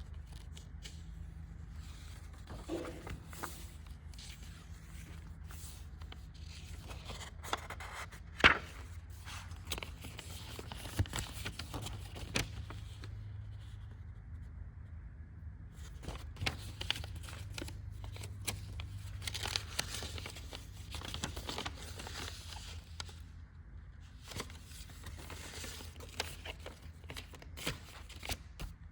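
Paper rustling and crinkling with scattered light clicks and scrapes, the sound of log book pages being handled and turned, over a steady low hum.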